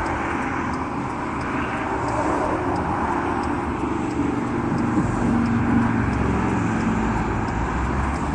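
Truck running in traffic: steady engine and road noise.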